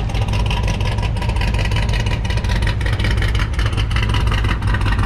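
Car engine idling steadily with a strong low exhaust note and no revving.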